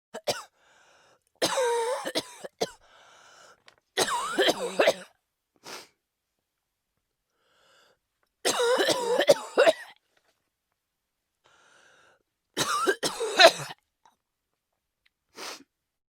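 A person coughing and clearing their throat in about six separate short bouts, with dead silence between them.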